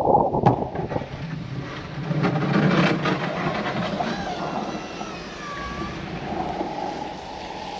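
Pickup truck running while clearing snow, with a rough scraping rush in the first second and a short wavering squeal about halfway through.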